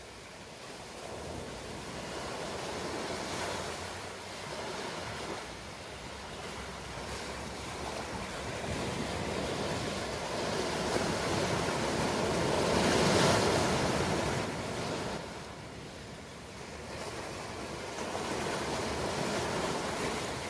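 Ocean waves washing in: a rush of surf that swells and eases in slow surges, the biggest about two-thirds of the way through.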